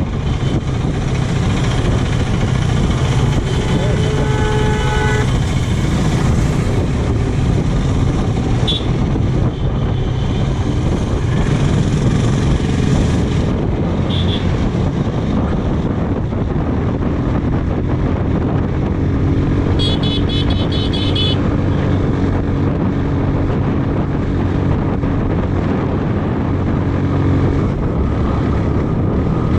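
Motorcycle engine running steadily under wind rush on a helmet or body-mounted microphone while riding. Vehicle horns sound along the way: one held blast about four seconds in, and a rapidly pulsing horn about two-thirds of the way through.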